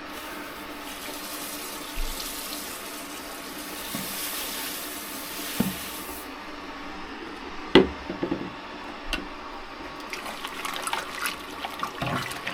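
Crushed Munich malt being poured into the hot mash water: a steady rushing hiss for about five seconds, then two sharp knocks and crackly rustling near the end.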